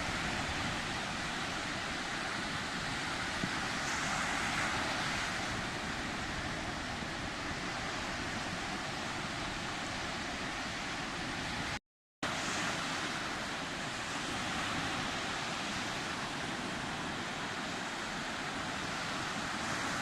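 Sea waves washing in as a steady rush, swelling about a quarter of the way in and again after a moment where the sound cuts out completely about halfway through.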